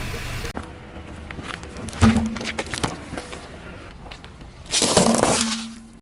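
Objects being crushed under a car tyre: a sharp crack about two seconds in, scattered crackles after it, and a longer dense crunching burst near the end.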